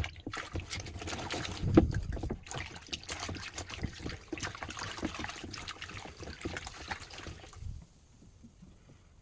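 Water splashing and trickling with irregular small knocks, a low thump about two seconds in, stopping shortly before the end.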